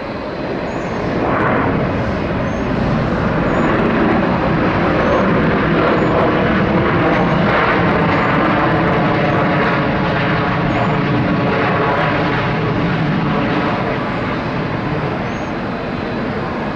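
Jet airliner engines passing close by: a loud, steady engine noise with a whine of engine tones, swelling over the first couple of seconds and easing a little near the end.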